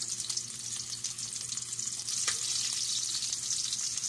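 Cooking oil sizzling and crackling in a wok as food fries, stirred with a metal spatula, with one sharp clink about two seconds in.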